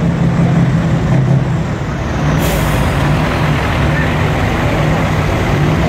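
Heavy trucks' diesel engines idling, with a sudden hiss of released air from an air brake about two and a half seconds in. People are talking in the background.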